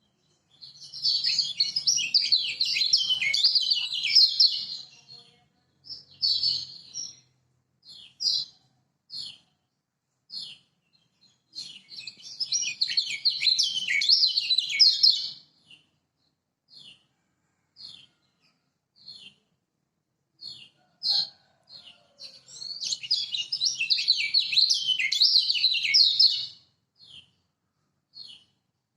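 Kecial kuning, a yellow white-eye, singing. Three long, fast warbling bouts of song come about ten seconds apart, with short single high chirps about once a second between them.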